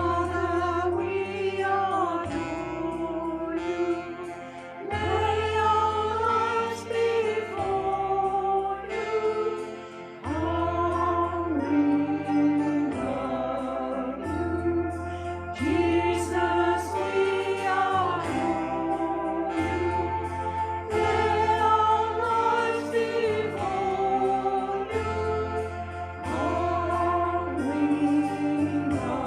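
A small group of voices singing a hymn together, with instrumental accompaniment carrying a steady bass line, the melody moving in phrases of a few seconds.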